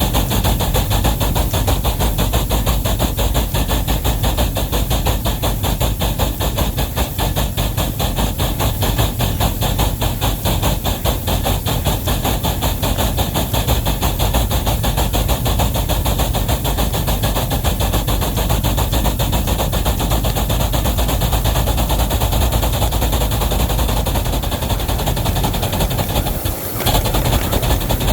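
Steam locomotive working hard with a heavy train, its exhaust beating in a rapid, steady rhythm over a continuous hiss. The sound dips briefly about 27 seconds in.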